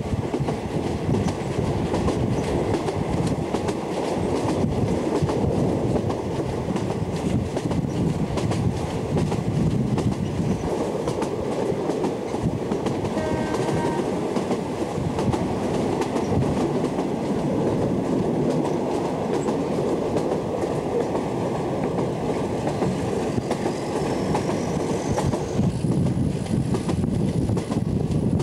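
Passenger train running along the track, heard from an open carriage window: a steady rumble of the wheels with a rapid clatter over the rail joints. A brief faint tone sounds about halfway through.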